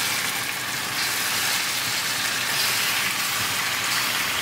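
Diced raw chicken breast sizzling in hot oil and tadka in a stainless steel sauté pan on high heat: a steady hiss.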